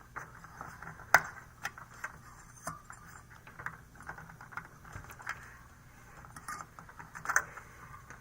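Small clicks and taps of fingers and a CR2032 coin-cell battery working against a motherboard's battery socket and its retaining tab, irregular, with a sharp click about a second in and another near the end.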